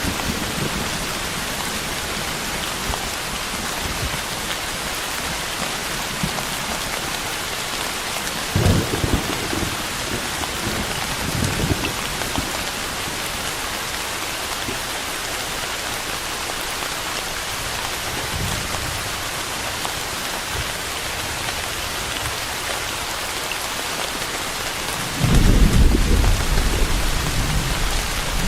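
Steady rain falling, a dense even hiss, with low rolls of thunder: two brief rumbles about nine and twelve seconds in, and a louder, longer rumble near the end.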